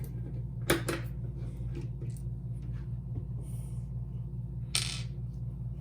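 A couple of small clicks and a short rustle as the door handle's lock parts are worked, over a steady low pulsing hum.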